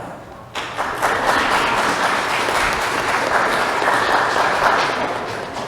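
Congregation applauding: many hands clapping together, starting suddenly about half a second in, holding steady, then dying away near the end.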